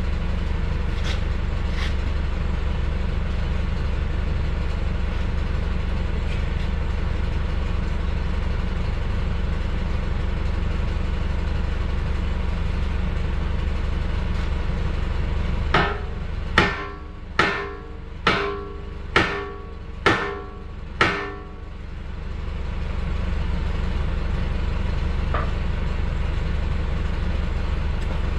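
A steady low mechanical drone, and about halfway through a run of about seven hammer blows on steel, a little under a second apart, each ringing briefly.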